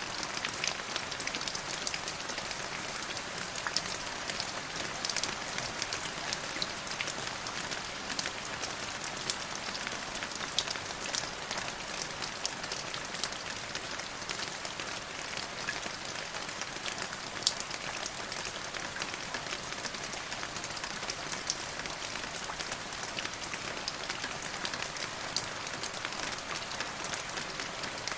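Steady rainfall: an even hiss with many individual drops pattering on a hard surface.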